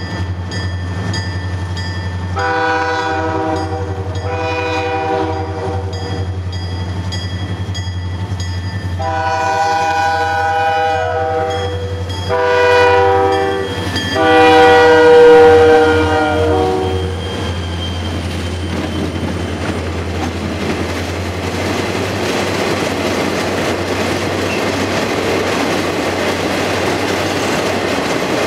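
Locomotive air horn on an approaching CN freight train sounding five blasts over about fifteen seconds, the loudest as the lead units pass about halfway through, over the steady low rumble of the locomotives' diesel engines. Then a string of empty ore hopper cars rolls past, wheels clattering over the rail joints.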